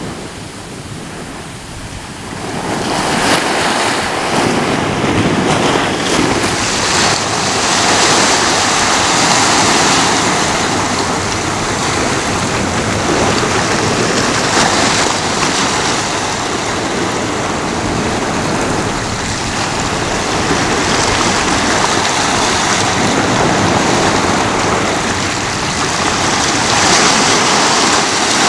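Ocean waves breaking and washing on a shore, a continuous rushing surf. It is quieter for the first couple of seconds, swells up about three seconds in, then keeps rising and easing in slow surges.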